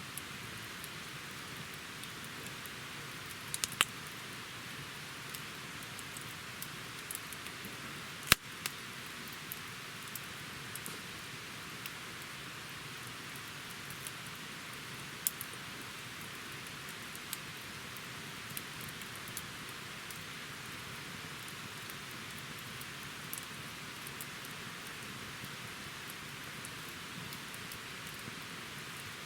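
Wood campfire burning with a steady hiss and scattered sharp crackles and pops, the loudest pop about eight seconds in.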